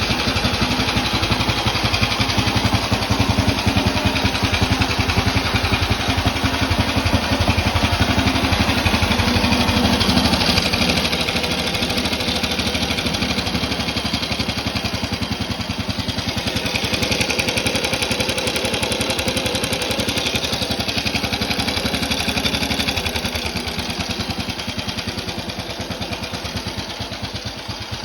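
Engine of a 1928 New Henley vintage motorcycle running with a fast, even firing beat; it picks up slightly about ten seconds in, then settles back.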